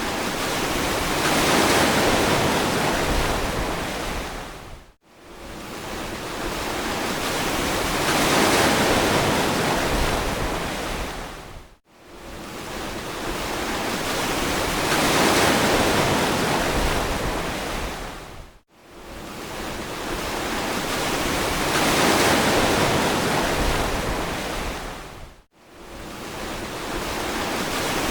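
Ocean waves washing on a beach, each surge swelling and then fading over about seven seconds, with a brief near-silent gap between one wave and the next.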